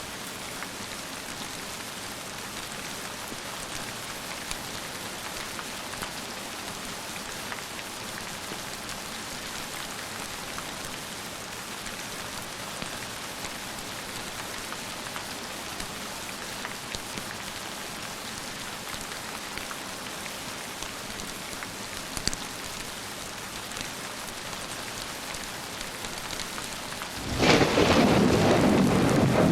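Steady rain falling, then a loud rumble of thunder breaking in suddenly near the end.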